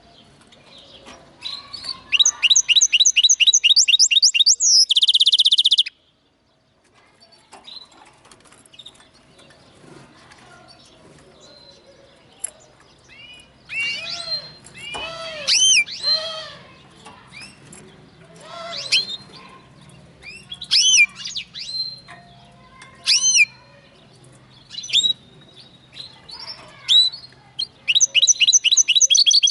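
Linnet × canary hybrid (mule) singing: a fast trill of repeated high notes ending in a loud buzzy note, then a short break and a loose series of short whistled and chirped notes, with another fast trill near the end.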